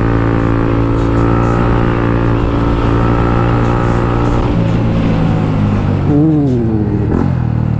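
Motorcycle engine running at a steady cruising speed, with wind rumbling on the helmet microphone; about four and a half seconds in the engine note drops as the bike slows down. A voice is briefly heard near the end.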